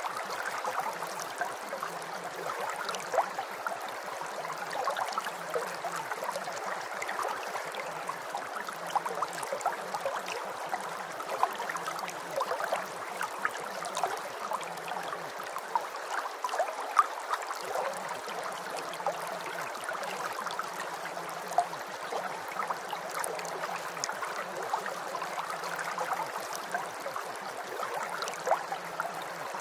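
Rain falling: a steady, dense patter of drops, with a faint low hum underneath that comes and goes.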